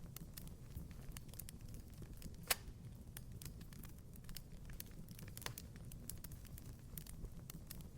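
Wood fire in a fireplace crackling, with irregular snaps over a low steady rumble, and a louder pop about two and a half seconds in and another about five and a half seconds in.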